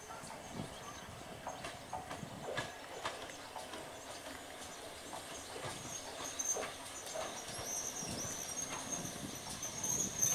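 GWR pannier tank 6430 and its autocoaches running slowly into a station, with irregular clicks and knocks from the wheels over the rail joints. A wavering high-pitched squeal comes in over the last few seconds.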